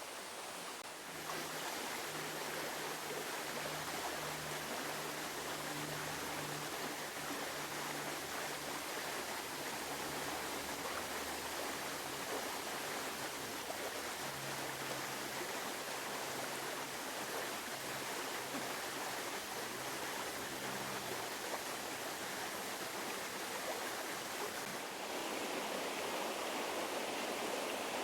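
Steady flow of the Bald River, water running over its bed, getting a little louder near the end.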